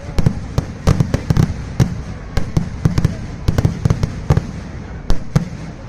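Fireworks going off in a rapid, irregular barrage: several sharp bangs a second, overlapping, over a continuous low booming rumble.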